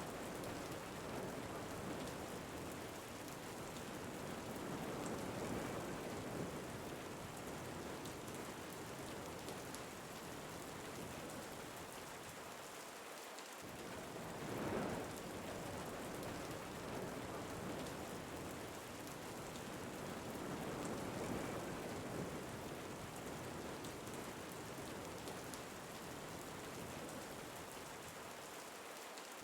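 Steady rain with wind rising and falling in gusts every few seconds. The same swells come round again about every sixteen seconds.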